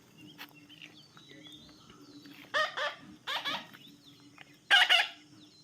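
Baby parrot calling: short calls in three groups about half a second to a second apart, the loudest near the end, over faint twittering.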